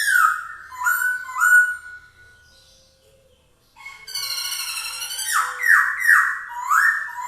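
Poksay Hongkong laughingthrush singing loudly: runs of whistled notes that slide down in pitch, repeated several times, broken by a pause of about two seconds before a second, longer phrase of rippling notes and downslurred whistles.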